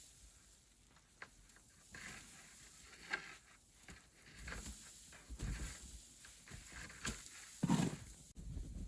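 Irregular crunching and shuffling of movement through snow, with a louder low thud near the end.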